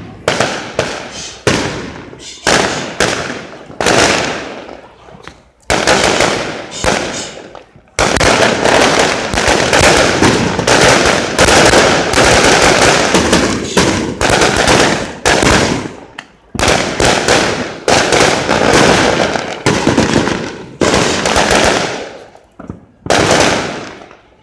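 Rojões (firework rockets) exploding in a long series of sharp bangs. At first the bangs come about one to two a second; from about a third of the way in they become a dense, nearly continuous barrage, which thins out to a few last bangs near the end.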